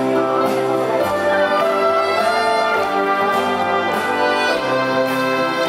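Live band with a brass section playing sustained chords over a light beat that ticks a little under twice a second.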